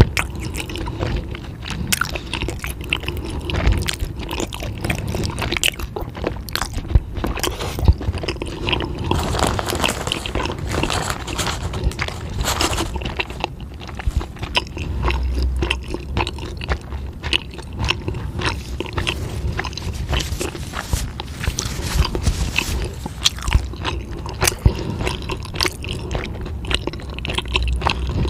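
Close-miked person chewing and biting crunchy food, with dense irregular crunches and crackles.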